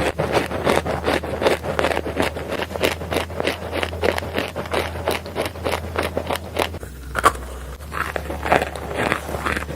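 Pieces of dry edible Turkestan clay being bitten and chewed, a dense run of crunching crackles with a brief pause about seven seconds in.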